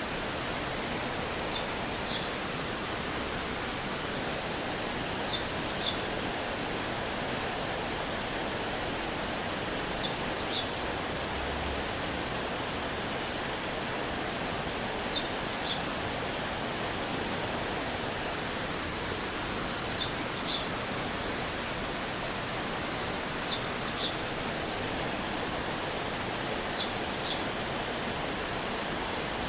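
A mountain stream's water running steadily over rocks, an even rushing. Every four to five seconds a short high call of two or three quick falling notes sounds over it.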